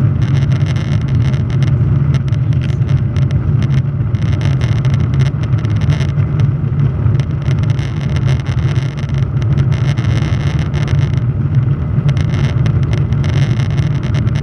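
Boeing 737-800's CFM56 jet engines running with a steady low drone, with a crackling hiss that comes and goes above it.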